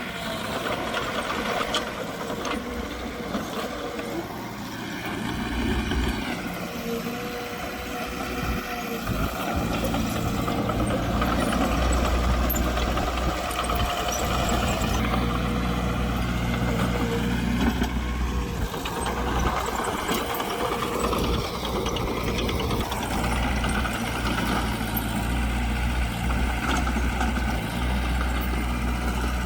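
Diesel engines of heavy earthmoving machines working, with a deep rumble and engine pitch rising and falling several times as they rev and ease off. The rumble grows louder about ten seconds in.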